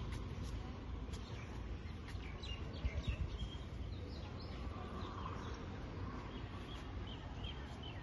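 Small birds chirping. There is a quick run of short downward-sweeping chirps about two to three seconds in and a string of brief chirps later, over a low steady rumble.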